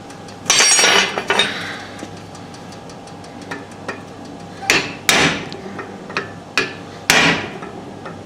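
Irregular hammer blows on a piece of stainless steel being forged, each a sharp metallic strike with a short ring: a quick run of blows about half a second in, then pairs of strikes around the middle and toward the end.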